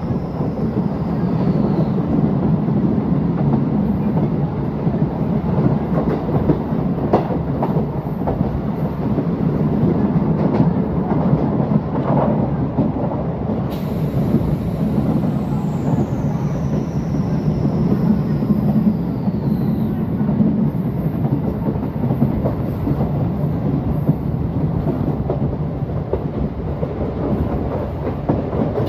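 MEMU electric multiple-unit train running along the track, heard from a coach window: a steady rumble of wheels on rails with rushing air, and a few faint clicks.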